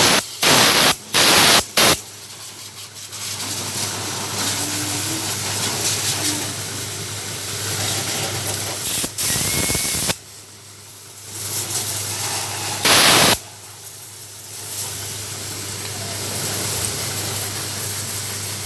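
Short blasts of spray on motorcycle carburetor jets as they are flushed clean: several in quick succession in the first two seconds, then single blasts about halfway and about two-thirds in, with a quieter steady rushing noise between them.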